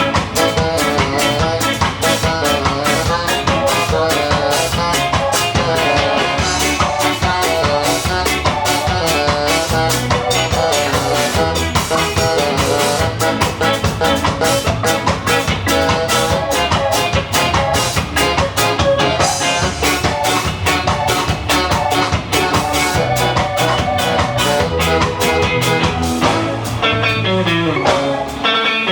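Ska band playing live, with a steady drum beat under bass and instruments, and a descending run near the end.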